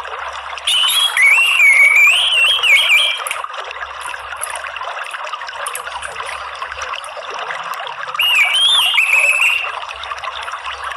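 Orange-headed thrush singing two warbling phrases of quickly rising and falling notes, the first about a second in and the second near the end, over a steady trickle of running water.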